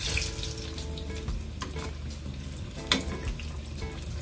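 Eggplant slices frying in hot oil in a pan, a steady sizzle, with a few sharp clicks, the loudest about three seconds in.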